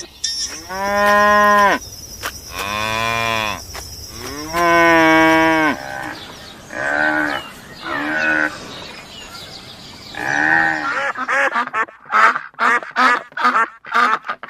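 Cows mooing: three long drawn-out moos one after another, followed by shorter calls. In the last few seconds there is a quick run of short, sharp calls, about three a second.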